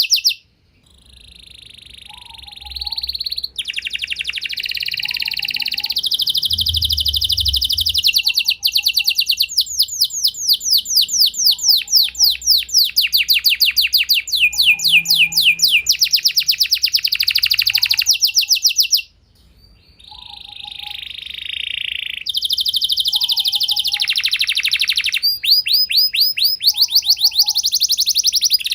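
Domestic canary singing a long, loud song of fast trills and rolls, with runs of rapid repeated sweeping notes. The song breaks off twice and picks up again each time.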